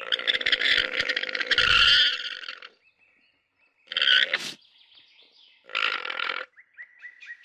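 Alpaca calling: one long, rough, pulsing call, then two short ones about four and six seconds in.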